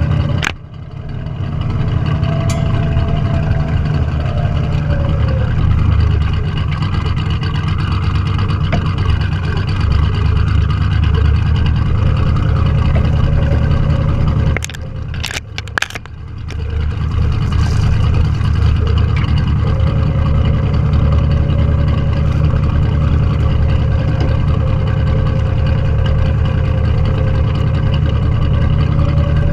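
Classic car's engine running hard under load, dropping back briefly about half a second in and again for a second or two around the middle before pulling strongly again.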